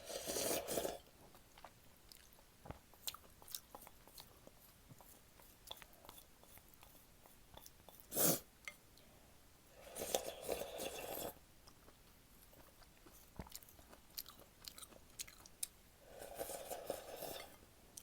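A person slurping and chewing jjapaguri noodles close to the microphone. Three slurps of about a second each come at the start, around ten seconds in and near the end, with soft wet chewing clicks between them and one short louder sound just after eight seconds.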